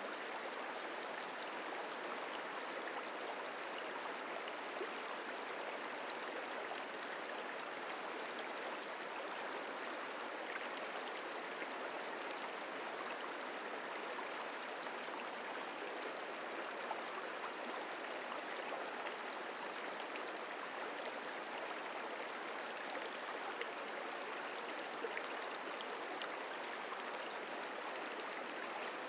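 The Merced River flowing: a steady, even rush of water with no breaks or changes.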